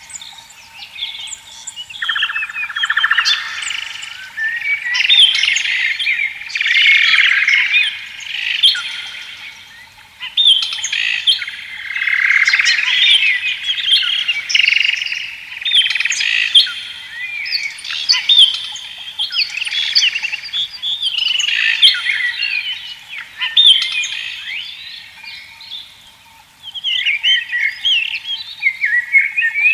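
Birds singing in a dense chorus, many chirping and warbling phrases overlapping in bursts of a few seconds each, over a faint steady high hum.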